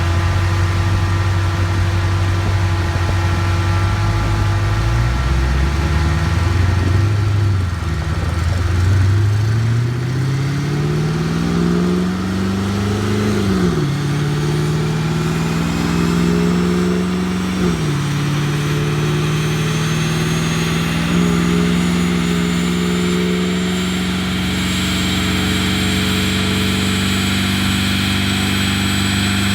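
Twin-turbocharged Chevrolet Caprice PPV engine on a chassis dyno, idling and blipped a few times, then pulling hard through the gears, with the pitch dropping sharply at two upshifts and climbing slowly in the last gear. A high whine rises along with it near the end.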